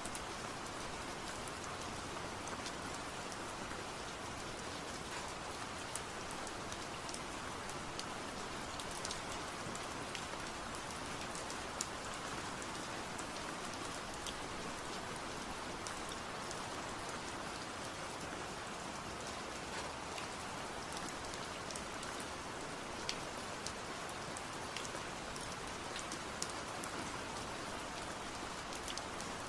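Steady rain falling, an even hiss with scattered sharp ticks of drops striking a surface.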